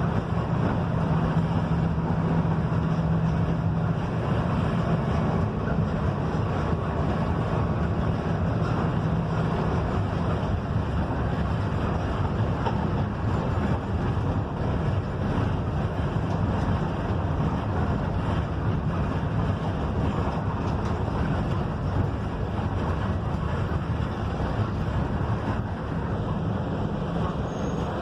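Mercedes-Benz OF-1721 bus running along the road, heard from inside the cabin: a steady engine drone with road and wind noise. A steady engine tone stands out for the first ten seconds or so, then sinks back into the drone.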